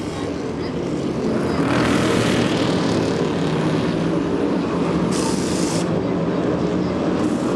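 A steady, droning engine sound made of several pitched notes that waver slightly. It grows louder over the first two seconds, then holds.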